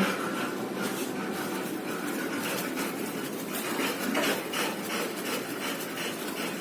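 Rapid, rhythmic clicking and rubbing, a few strokes a second, from a baby pigeon being hand-fed.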